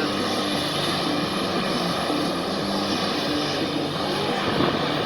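A-10C's twin turbofan engines running steadily, an even rushing engine noise with a low hum that wavers through it, recorded on a phone.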